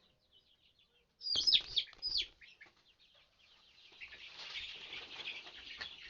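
Young chicken pullets peeping. About a second in, two loud falling squawks come with a scuffle underneath as a tangled pullet is handled, and from about four seconds in many pullets peep together in a dense chorus.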